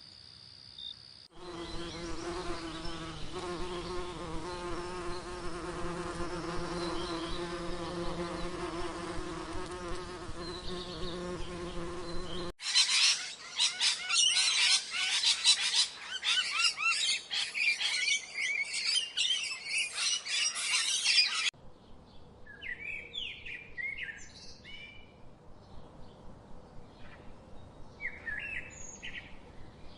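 A run of cut-together animal sounds. First a steady insect buzz, like a fly or bee, runs for about ten seconds. It cuts suddenly to a dense chorus of many small birds chirping, which stops abruptly after about nine seconds. Separate, scattered bird chirps follow.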